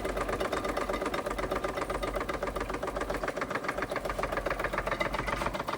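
Wilesco D32 model steam engine running steadily under steam, a fast, even mechanical chuffing and clatter.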